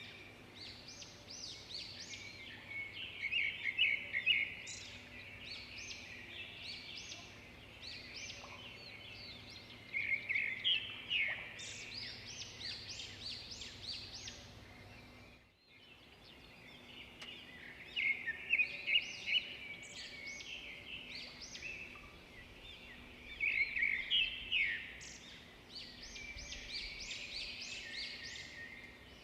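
Songbirds singing and chirping in a dense chorus of short trills and high chirps, with a brief gap about halfway through.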